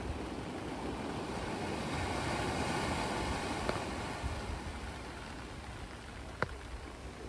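Ocean waves washing in: a rush of surf swells about two to three seconds in, then eases off. A single sharp click sounds near the end.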